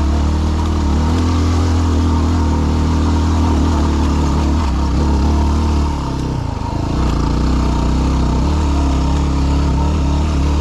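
Yamaha WR250R's single-cylinder four-stroke engine pulling steadily under load on a trail climb; about six seconds in the throttle eases briefly, the note dips, then picks back up.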